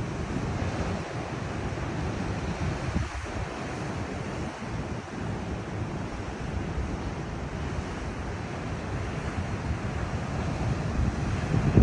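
Ocean surf breaking and washing against a rocky shore, with wind buffeting the microphone in low gusts.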